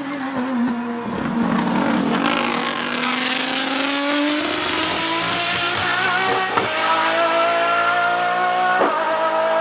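Nissan 370Z's V6 engine pulling under acceleration, its pitch climbing steadily, with two brief breaks where it shifts gear, about two-thirds of the way through and again near the end. A rushing hiss rides over the engine in the middle seconds.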